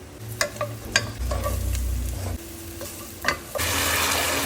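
Cooking in a pot: a utensil clinks and scrapes against the pot several times, then a steady, loud sizzling hiss starts about three and a half seconds in.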